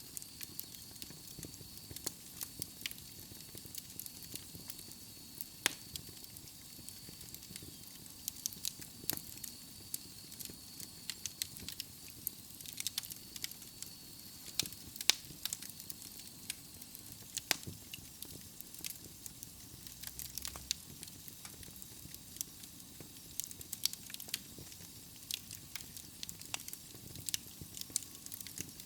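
Wood logs burning in a fireplace, with irregular sharp crackles and pops over a steady soft hiss.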